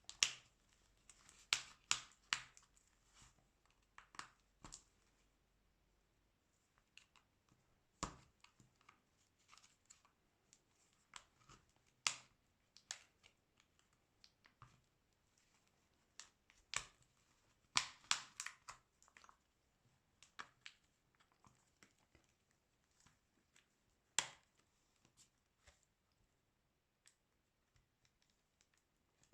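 Scattered sharp clicks and short scrapes of small repair tools working on the plastic parts of a Xiaomi Redmi 9A smartphone as it is taken apart, some coming in quick clusters.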